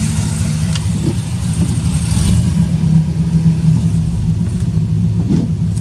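Pickup truck engine running steadily at low speed while driving, a deep steady engine note heard from inside the cab.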